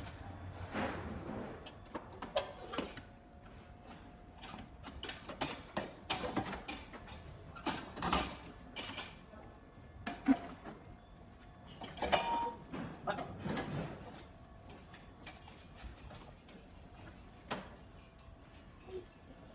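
Scattered knocks and clanks, irregular and in clusters, with quieter stretches between; the sharpest come about ten and twelve seconds in.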